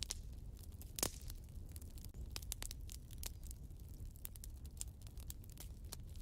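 Wood fire burning in a fireplace: irregular crackles and snaps over a low steady rumble, with one sharper pop about a second in.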